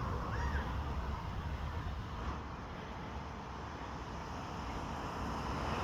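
Steady outdoor background noise, a low rumble like distant traffic, with one faint short chirp about half a second in.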